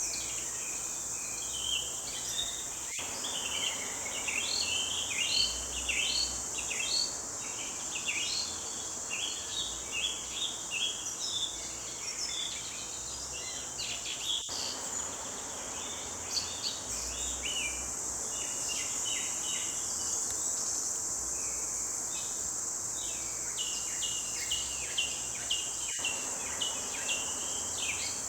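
Several songbirds singing in quick chirps and trills over a steady, high insect drone.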